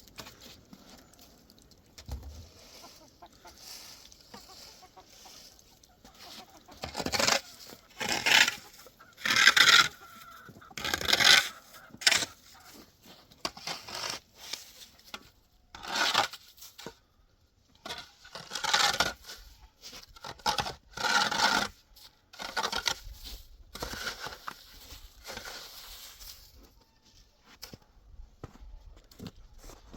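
Chickens calling: a string of about a dozen short, loud calls, bunched in the middle, over quiet background noise.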